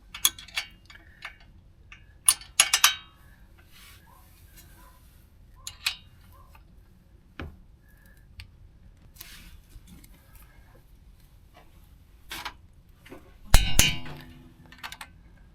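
Metal hand tools clinking and clanking against metal during work on a car's lower suspension arm, in scattered light knocks. A louder clank with a short metallic ring comes near the end.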